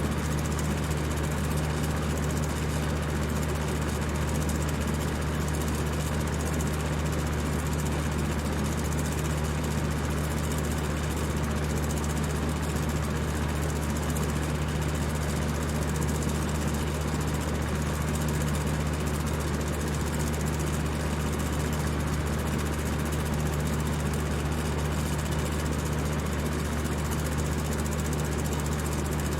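Electric fan running at high speed: a steady low motor hum under an even rush of moving air, unchanging throughout.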